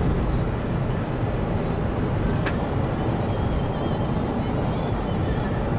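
Steady rumble of a car driving, heard from inside the cabin, with one sharp click about two and a half seconds in.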